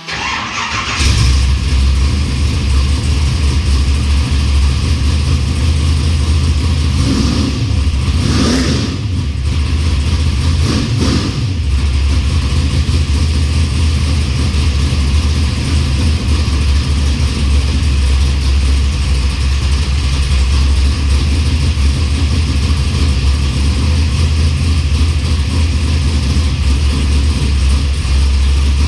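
A 632 cubic-inch big-block Chevrolet V8 on a newly fitted Holley Sniper fuel injection, started for the first time: it fires about a second in and runs loud. It is revved briefly twice, around eight and eleven seconds in, and otherwise idles steadily.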